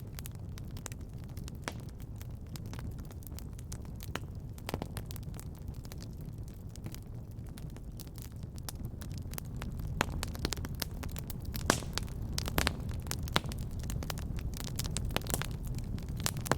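Wood fire burning in a fireplace: a steady low rumble of flames with irregular sharp crackles and pops, coming thicker and louder in the second half.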